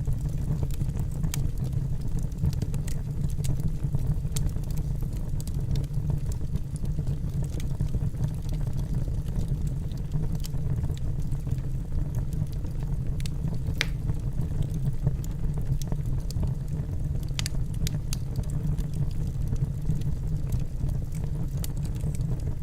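Wood fire burning in a fireplace: a steady low rumble of flames with scattered sharp crackles and pops from the burning logs, a few of them louder in the second half.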